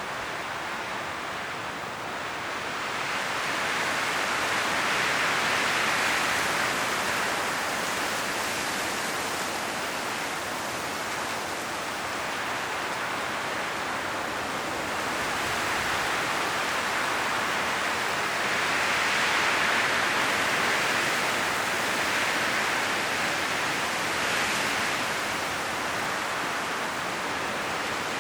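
Strong wind blowing through forest trees, rustling the leaves, rising and falling in slow gusts.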